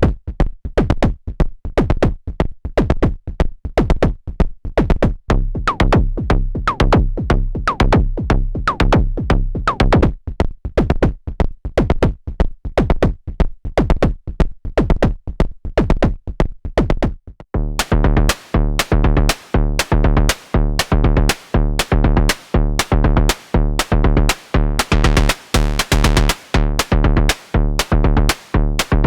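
Analog percussion synthesizer playing a sequenced, looping drum pattern of about three to four hits a second, with pitched low tones under the strikes for a while. About two-thirds of the way through, the pattern changes to a fuller, denser groove with a steady pitched drone beneath sharper hits.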